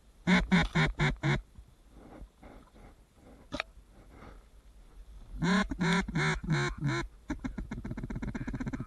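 Mallard hen-style quacking, loud and close, most likely a hunter's duck call: a run of about five quacks, a pause, a second run of five or six, then a fast rattling chatter near the end like a feeding chuckle.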